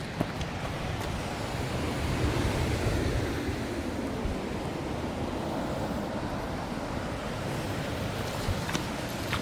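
Ocean surf washing ashore in a steady rush, swelling about two seconds in and then easing off.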